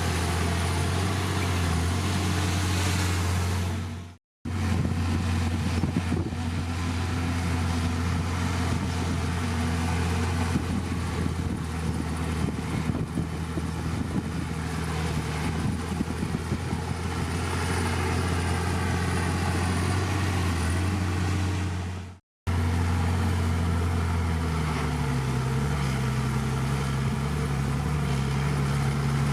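Heavy diesel engine of a bulldozer running steadily under work, with a deep, even drone. The sound cuts out abruptly twice, about four seconds in and again past twenty seconds, and the engine note shifts in the last few seconds.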